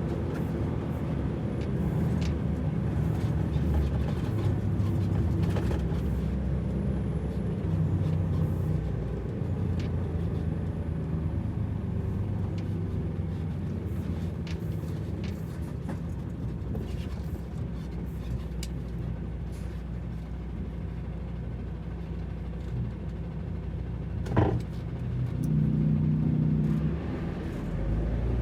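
Truck engine running at low speed as it drives down a ramp, its low sound swelling and easing, with one sharp knock about three-quarters of the way through.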